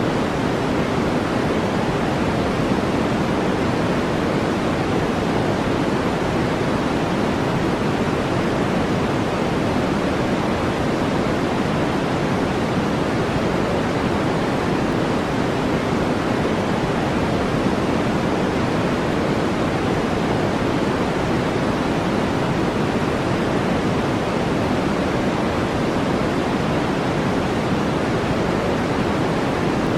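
Steady brown noise: a deep, even rushing hiss that never changes.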